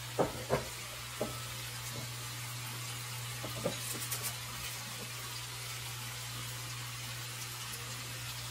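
Browned chicken pieces frying in oil in a stainless steel skillet: a steady sizzle with a few short crackles and pops in the first few seconds. A steady low hum runs underneath.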